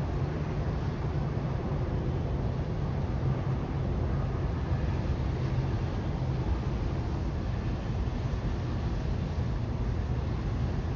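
Steady low rumbling noise, even throughout with no distinct events.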